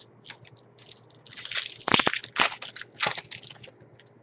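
Trading cards and their packaging handled by hand: a run of crisp rustling and scraping strokes, loudest about two seconds in.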